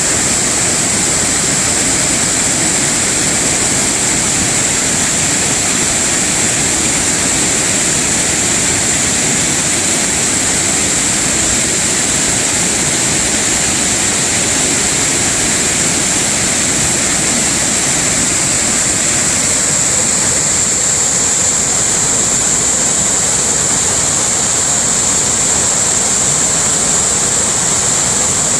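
Waterfall: water pouring over the falls with a steady, even rush and a strong high hiss that never lets up.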